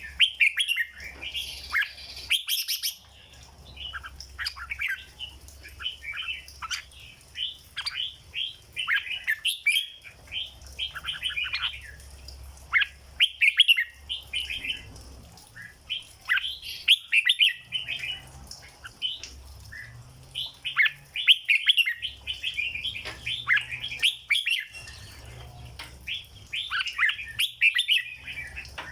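Red-whiskered bulbul singing: quick bright chirped and whistled phrases repeated one after another.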